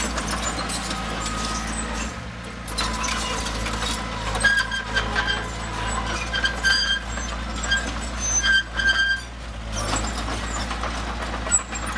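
Heavy diesel earthmoving machinery running steadily, with short high-pitched squeaks coming and going between about four and nine seconds in.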